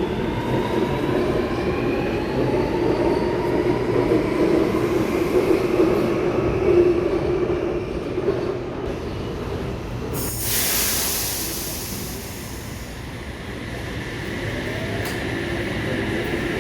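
Electric suburban train moving at the platform, with a whine that glides in pitch and wheels squealing on the rails. About ten seconds in there is a loud burst of air hiss lasting a couple of seconds, and near the end a quieter rising whine.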